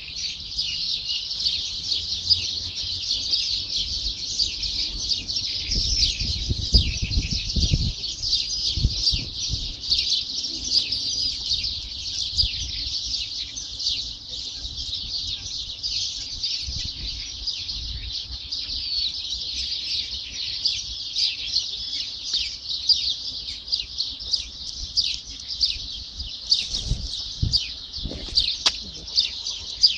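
Many small birds chirping at once in a dense, continuous chorus of short high calls, with a low rumble about six seconds in.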